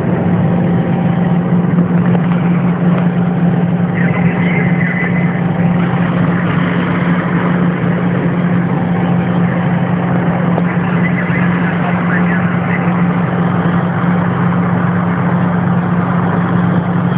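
Diesel locomotive engine running steadily under heavy load on an uphill grade, heard from inside the cab as a loud constant drone. A faint high squeal comes and goes twice.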